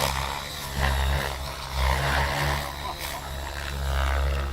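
Radio-controlled 3D stunt helicopter flying aerobatics: a steady whine from its rotor and motor that swells and fades several times as it manoeuvres.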